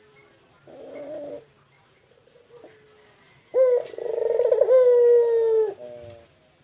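A pet puter (Barbary dove) cooing. A soft short coo comes about a second in, then a loud, long coo from about halfway, held on one steady note and ending in a short stuttering tail. Its voice is big and echoing.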